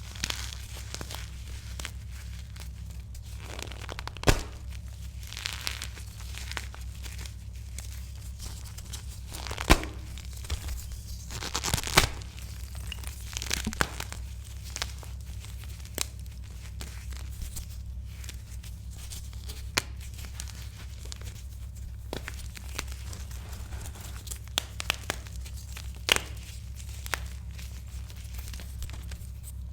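Gym chalk being crushed, crunching and crumbling in irregular crisp crackles, with a few sharper cracks near the middle, over a low steady hum.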